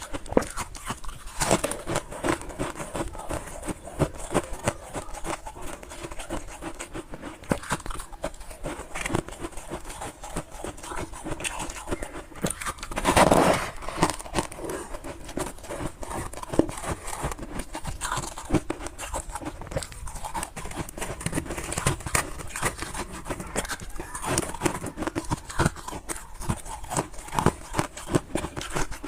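Crunchy freezer frost being chewed close to the microphone: a continuous run of small crackles and crunches, with one louder, longer crunch about halfway through.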